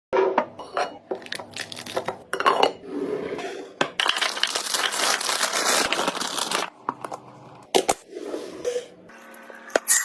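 Restocking sounds from filling a fridge: items and packaging set down with sharp clinks and taps, and a steady rushing, crinkling noise for about three seconds in the middle.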